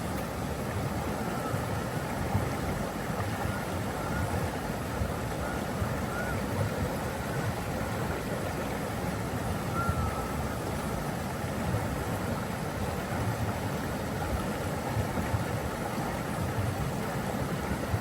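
Water rushing steadily, like a waterfall or fast stream, as an even, unbroken wash of noise. A few faint short chirps sound over it here and there.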